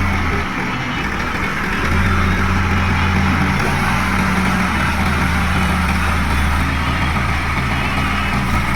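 Heavy diesel machinery engine running steadily with a deep hum, getting a little louder about two seconds in.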